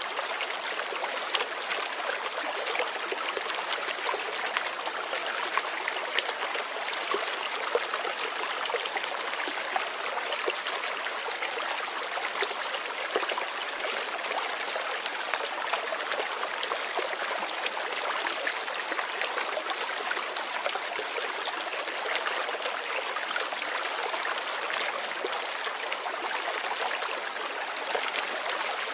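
Light rain falling steadily, a dense even patter of small drops.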